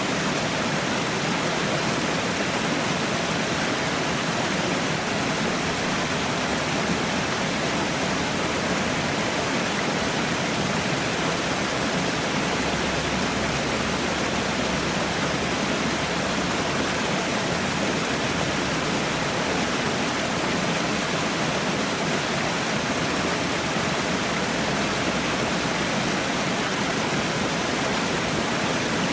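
Falling water running steadily, an even rushing noise with no let-up or change.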